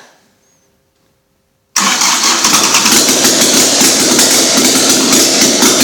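An engine bursts into loud running about two seconds in, with no cranking heard before it, and keeps running loudly with a rapid rough beat.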